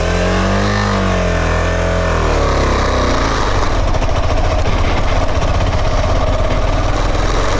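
Motorcycle engine running on the move, its pitch rising and then falling back over the first two or three seconds, then running steadily.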